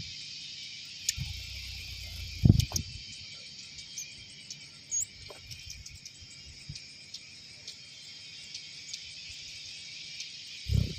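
A steady chorus of insects, crickets or cicadas, with a couple of brief low thumps, the loudest about two and a half seconds in and another near the end.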